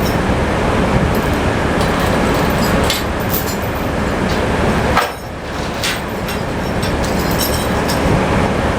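Sawmill running beside a tractor engine: a loud, steady mechanical din with a few sharp clanks, dipping briefly about halfway through.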